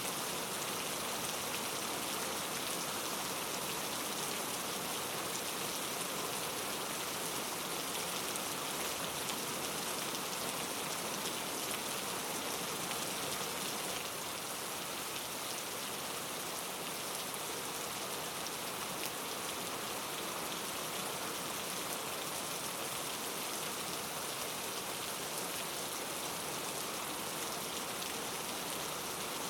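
Steady rain falling on a surface, an even, dense hiss of drops that eases slightly about halfway through.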